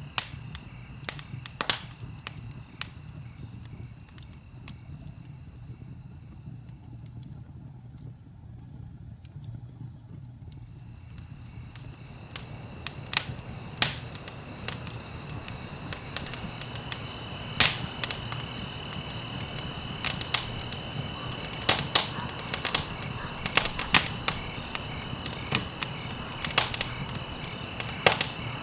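Wood fire crackling and popping over a low rumble, with crickets trilling steadily behind. The crickets drop out for a few seconds about a third of the way in and then return, and the pops come more often in the second half.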